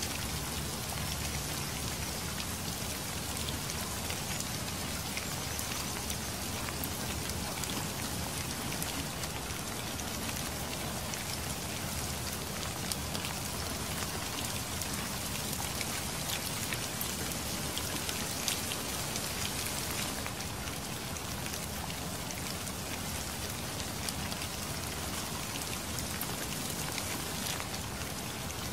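Steady rain falling, with many close individual drops striking a surface as sharp little hits over the even hiss of the downpour.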